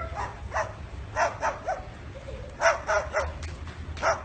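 Short, sharp barks, about ten of them in quick runs of two to four.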